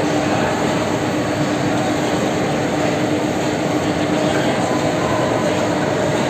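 Tea factory machinery running: a loud, steady mechanical hum with one constant low drone.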